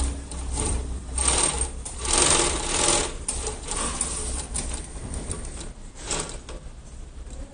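High-speed single-needle industrial lockstitch sewing machine running, stitching in bursts whose rattle swells and falls, loudest about a second in and again between two and three seconds in.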